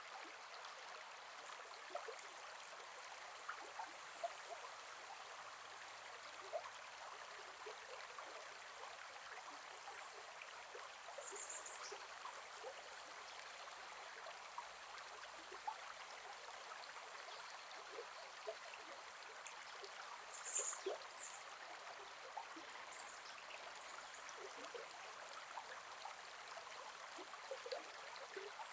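Gentle forest river flowing: a steady, fairly faint rush of water with small splashes and gurgles scattered through it.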